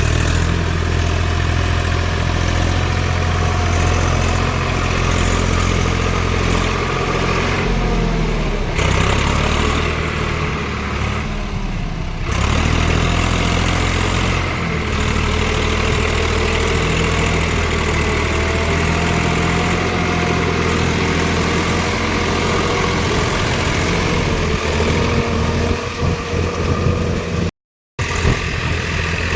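Tractor's diesel engine running steadily, its note shifting for a few seconds about a third of the way in. The sound cuts out for a moment near the end.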